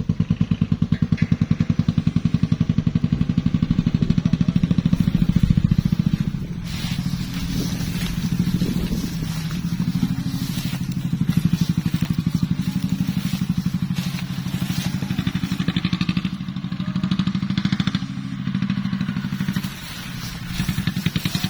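Kubota tractor's diesel engine running hard under load with a steady, even throb. A harsher, rattling noise joins about six seconds in and stays to the end.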